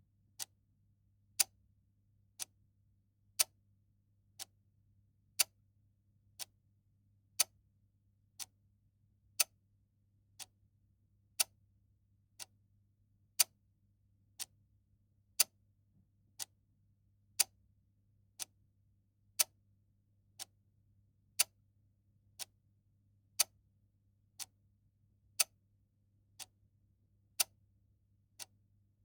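Clock ticking steadily, one tick a second, alternating a louder tick and a softer tock, with a faint low hum underneath.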